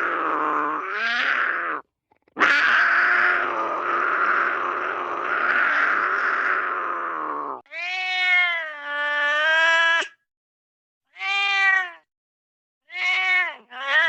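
Hanna-Barbera cartoon sound effects of animal cries. A raspy cry breaks off about two seconds in, a longer raspy cry follows, then three shorter pitched calls that bend up and down, with short silences between them.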